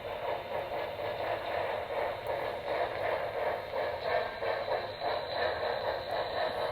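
Broadway Limited Imports Y6B model steam locomotive running slowly on its track, with a soft, steady rhythmic chuffing that rises and falls a few times a second, together with the running noise of the model.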